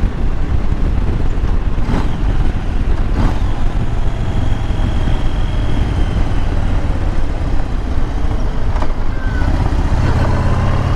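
Motorcycle engine running under way, with wind rushing over the microphone and a few short clicks. The low engine hum grows stronger near the end.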